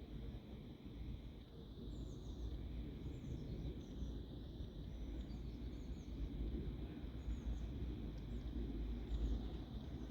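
Outdoor ambience: wind rumbling low on the microphone, with scattered faint bird chirps and a faint steady high hum.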